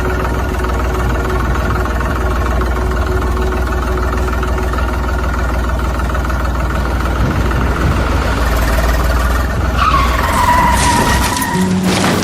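Steady engine-like running sound with a low hum. About ten seconds in a whine dips in pitch and holds, and sharp clicks follow near the end.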